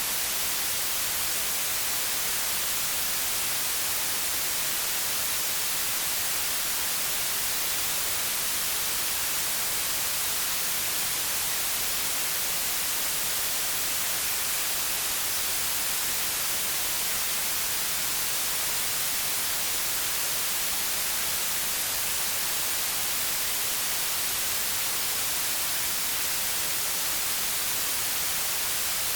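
Steady white noise: an even, unchanging hiss, brightest in the treble, with no variation.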